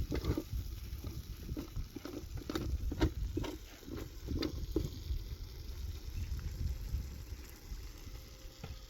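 Irregular knocks and scrapes for about the first five seconds, then only a low steady rumble.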